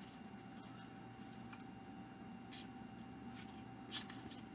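Faint swish of baseball cards being slid and flipped by hand, with brief soft swishes about halfway through and near the end, over a faint steady hum.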